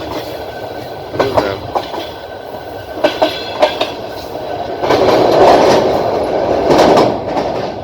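Passenger train wheels running over the track: steady running noise with several sharp clicks of the wheels over rail joints, and a louder stretch of rushing noise lasting about two seconds from about five seconds in.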